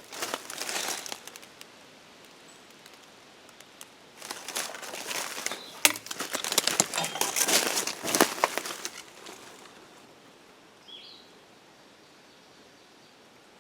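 Rustling and crunching, like footsteps through dry leaves and brush, in two spells: briefly about a second in, then longer from about four to nine seconds, with sharp snaps among it. Near eleven seconds a single short bird chirp.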